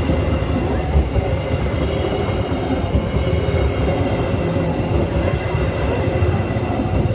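Train running past on the rails, a loud steady rumble of wheels and carriages.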